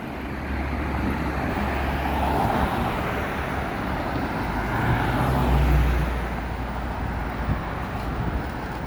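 Street traffic: a motor vehicle's engine and tyre noise swells as it passes, loudest about five or six seconds in, then fades.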